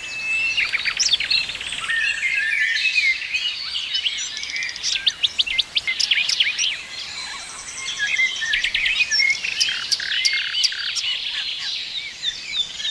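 Several songbirds singing and chirping at once: overlapping trills, quick rising and falling whistles and sharp chirps.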